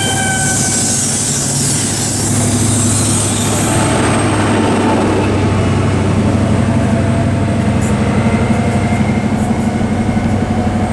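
Diesel engines of an InterCity 125 (Class 43 HST) power car running steadily as the train pulls out. A couple of high tones fall slightly in pitch at the start, and the engine drone grows and pulses in the second half as the rear power car draws near.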